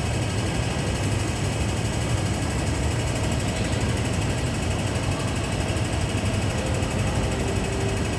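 MTR M-Train electric multiple unit: a steady low hum and rumble with no breaks.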